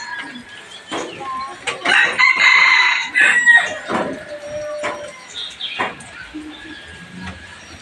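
Birds calling: one harsh, drawn-out call lasting about a second and a half, starting about two seconds in, among short chirps and sharp notes.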